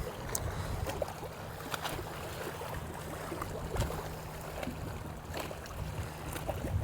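Wind rumbling on the microphone and water noise around a small fishing boat, with a faint steady hum and a few small clicks.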